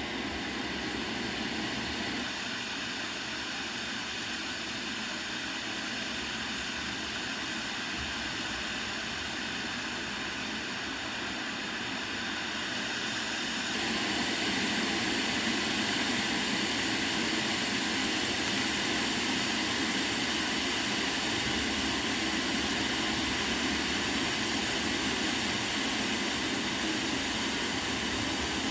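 Steady wind rushing through a tree's leaves, an even noise that suddenly gets louder about 14 seconds in.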